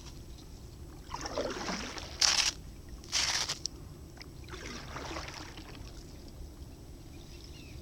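Kayak paddle strokes in the water: four splashing swishes in the first five seconds, two of them short and sharp, then the water goes quieter.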